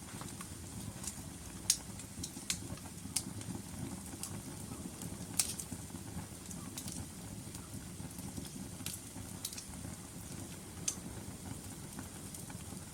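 Burning logs crackling, with sharp pops at irregular intervals over a steady low rumble of the flames; the loudest pop comes about two seconds in.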